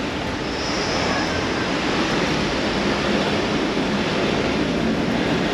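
Steady rush of road and wind noise from a moving car, growing a little louder about a second in.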